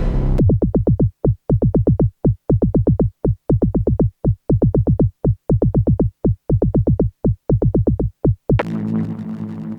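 Dreadbox Typhon analog synthesizer playing a sequenced pattern of short, plucked bass notes, about three to four a second, each with a quick downward pitch drop at its start. Near the end a new preset comes in as a sustained, buzzy drone with hiss on top.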